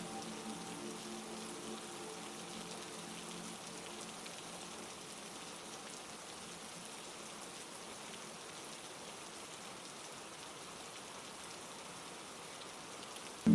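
Steady heavy rain: an even hiss of countless drops falling on a surface. A few soft sustained tones fade out in the first couple of seconds, leaving the rain alone.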